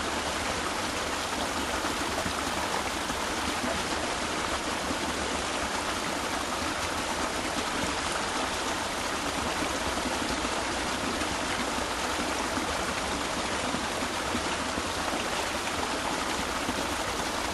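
Small brook flowing and splashing between rocks, a steady rush of water.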